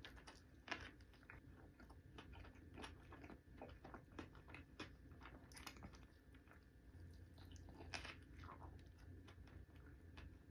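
A person eating fast food, faint: irregular bites, crunches and wet chewing clicks.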